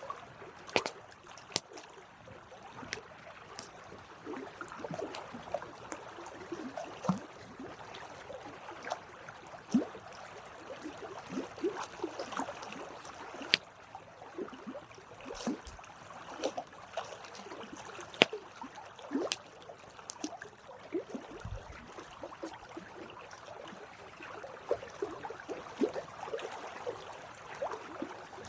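Wood campfire burning: irregular sharp crackles and pops over a steady low hiss.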